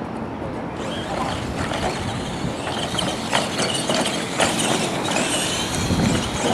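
Electric R/C monster trucks running, a mix of motor and gear whine with rattling and repeated sharp knocks and clatters from the chassis and tyres. The sound picks up about a second in.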